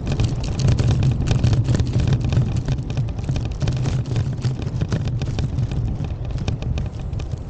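Steady low rumble like road traffic, with a rapid crackle of small clicks over it.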